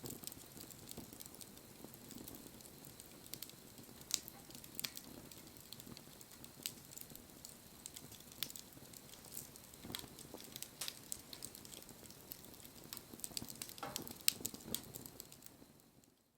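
Wood campfire burning, crackling with sharp irregular pops over a low steady rush of the flames. The sound fades out near the end.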